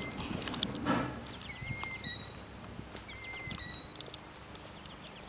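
Adult killdeer calling: three shrill, drawn-out notes, each dropping in pitch at the end, about a second and a half apart. A short rustle comes about a second in.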